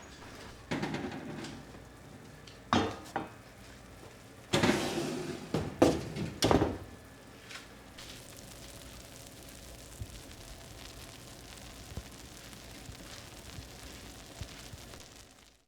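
Kitchenware being handled: a series of knocks, clinks and clatters, loudest about halfway through, then a faint steady background.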